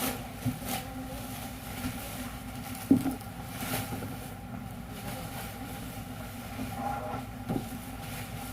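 Machinery running with a steady low hum, with a few sharp clicks and clunks; the loudest comes about three seconds in.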